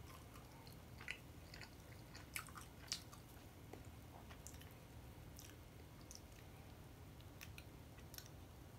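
A person quietly chewing garlic naan, with faint wet mouth clicks and smacks scattered through, a few clearer ones in the first three seconds.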